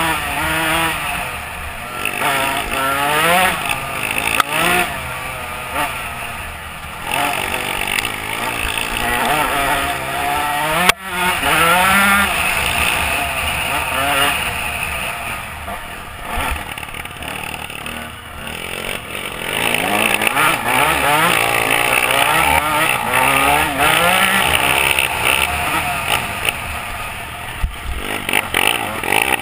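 Dirt bike engines revving hard and easing off again and again, their pitch climbing and dropping with each throttle opening and shift.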